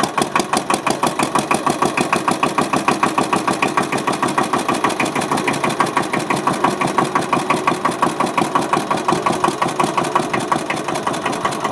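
Hatz E85 single-cylinder diesel stationary engine running steadily at a slow, even beat of about five to six firing pulses a second.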